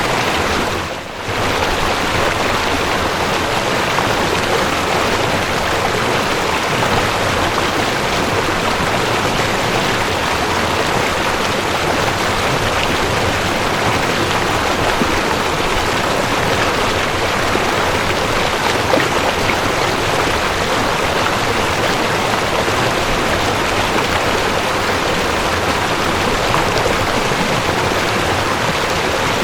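Mountain stream rushing over rocks: a steady, even rush of water, with a brief dip in level about a second in.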